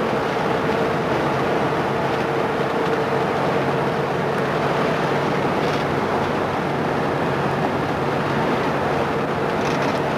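A steady engine running at constant speed: an even hum under a continuous rushing noise.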